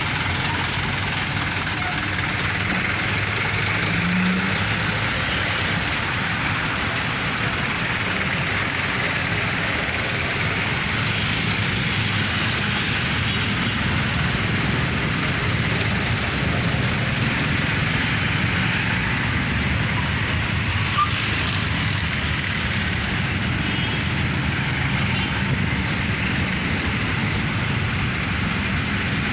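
Steady heavy road traffic with buses and trucks passing: a continuous mix of engine rumble and tyre noise.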